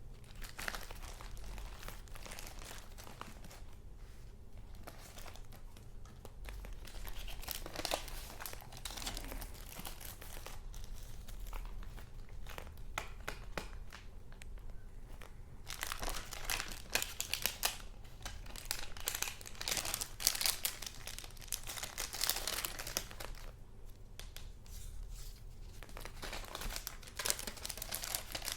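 Paper rustling and crinkling as junk-journal papers are handled and leafed through, in irregular bursts that grow busier and louder in the second half.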